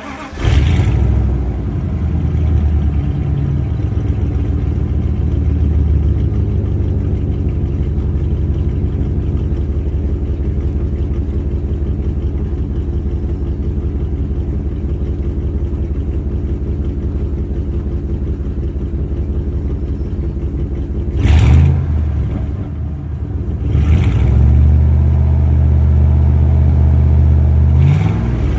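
A 1996 Dodge Ram 1500's 5.2-litre (318) V8 starts up and idles through a Thrush Turbo muffler. About 21 seconds in it is blipped briefly. From about 24 seconds it runs at a higher, steady speed, then revs again near the end.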